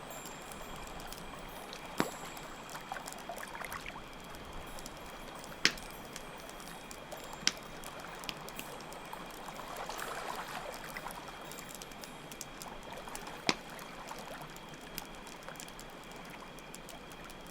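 Layered campfire ambience: water flowing steadily under a crackling wood fire, with four sharp pops standing out, and crickets chirring in a thin, steady high tone.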